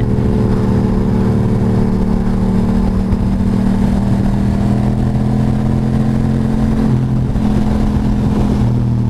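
Ducati motorcycle engine running at a steady cruising speed, an even drone, with wind and road noise from riding.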